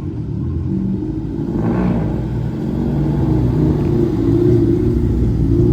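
Subaru Impreza 2.5RS rally car's flat-four engine running at moderate revs under way, a low rumble whose pitch shifts slightly as the throttle varies.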